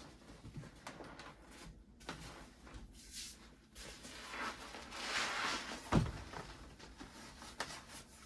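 Rustling and handling noises with a few light knocks, a longer rustle about five seconds in and a single thump about six seconds in.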